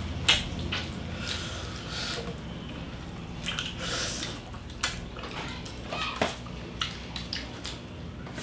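Close-miked eating sounds of roast pig (lechon) being chewed with the mouth open: wet chewing and smacking, with scattered sharp clicks at irregular moments.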